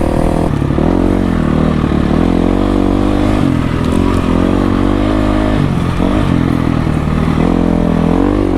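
Dirt bike engine under riding, its revs rising and falling again and again as the throttle is opened and closed.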